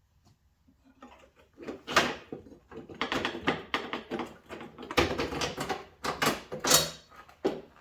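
Fender flare of an XJ Jeep Cherokee being worked loose and pulled off the body: a long run of knocks, clatters and scrapes of plastic against the body panel, loudest about two, five and nearly seven seconds in.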